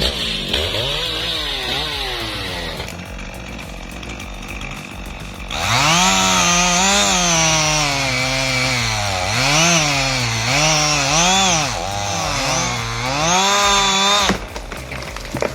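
Stihl MS 881 two-stroke chainsaw cutting into a large tree trunk. Its engine revs up and drops in pitch again and again as the chain bogs down in the cut and recovers, then stops abruptly near the end.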